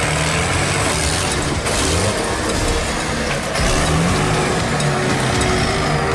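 Off-road rock-racing truck's engine revving up and down under load, getting louder about three and a half seconds in.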